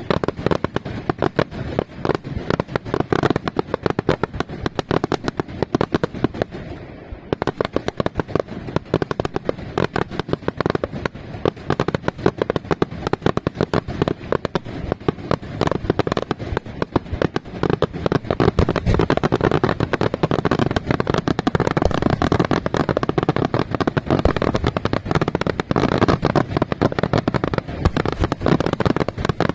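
Aerial fireworks display by Senatore Fireworks: a dense, continuous barrage of bursting shells and bangs, many a second, with sharper crackle filling in from about seven seconds in.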